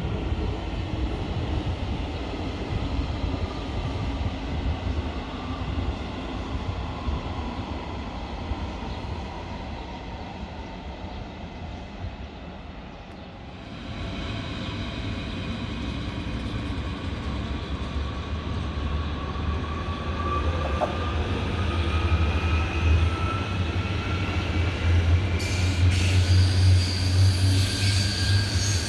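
Train running on the tracks: a steady rumble of wheels on rails. From about halfway through, a whine slowly rises in pitch while the low rumble grows louder toward the end.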